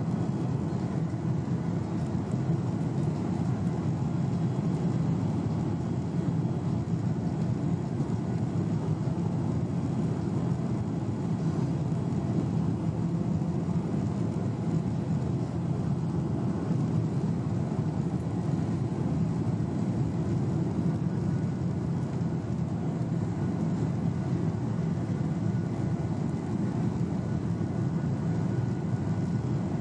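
Steady cabin noise inside a Boeing 737-800 with CFM56-7B engines: a continuous low engine and airflow rumble, even in level throughout.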